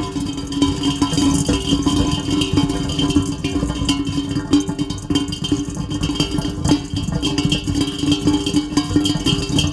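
Heavy rain falling steadily, a dense, rattling patter of drops with a steady low hum underneath.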